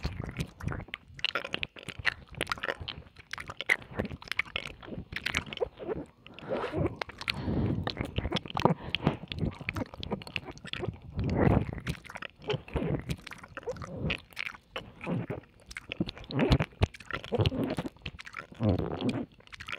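Wet mouth sounds of ASMR ear licking and kissing: a dense, irregular run of smacks, clicks and slurps.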